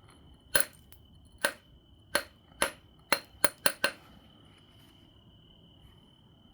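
Eight sharp, ringing knocks of a knapping billet striking an obsidian biface, the strikes coming faster near the end.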